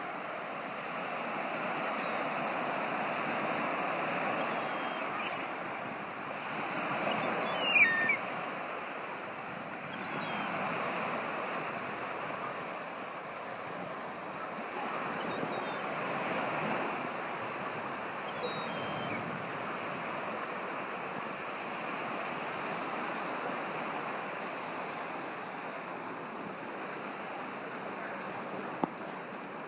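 Waves breaking and washing on a beach, with wind buffeting the microphone. About eight seconds in, a short, loud, falling cry, most likely from the young gull, with a few faint chirps later on, and a sharp click near the end.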